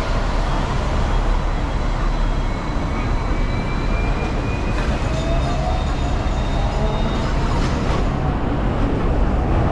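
Hong Kong double-decker electric tram running steadily, with a low rumble and a faint whine that rises slowly in pitch around the middle.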